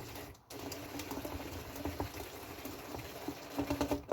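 Cordless drill running, driving screws into the plastic lid of a spa pump housing; it stops briefly about half a second in, then runs steadily and stops near the end.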